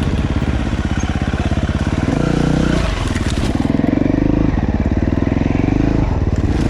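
Dirt bike engine pulling in a low gear through a tight corner, running low and steady at first, then revving up about two seconds in and again a little later.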